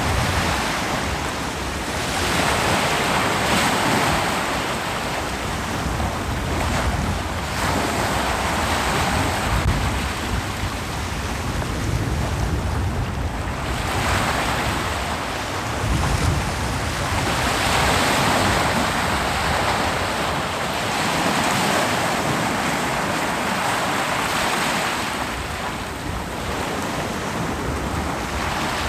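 Ocean waves breaking and washing onto a beach in slow surges that swell and fade every several seconds, with some wind.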